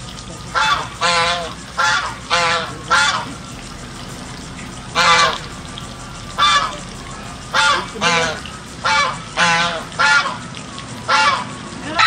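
Domestic geese honking: about fourteen short honks in quick bunches, with a pause of a couple of seconds about three seconds in.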